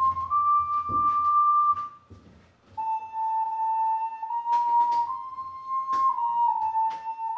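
Ocarina playing a slow melody of long held notes, a pure, nearly overtone-free tone stepping gently between neighbouring pitches. It breaks off briefly about two seconds in for a breath, then resumes.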